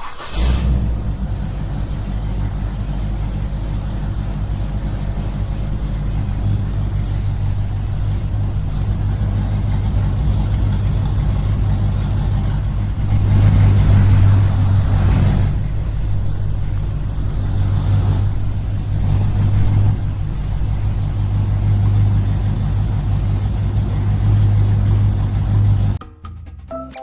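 Small engine running steadily with a low chugging, growing louder for a couple of seconds about halfway through; it cuts off abruptly near the end.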